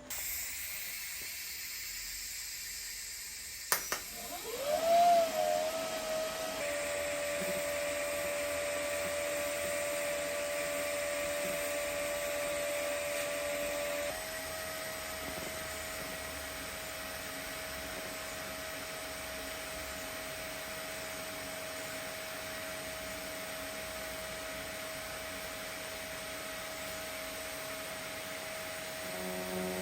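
TIG welding arc on steel pipe during the root pass: a sharp crack as the arc strikes about four seconds in, then a steady hissing buzz with a high whine. The tone shifts and gets a little quieter about halfway through.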